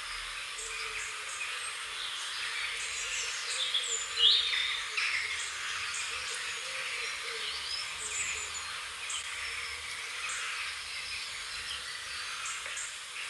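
Several small birds chirping and whistling against a steady high background hiss, with one louder, quick rising call about four seconds in.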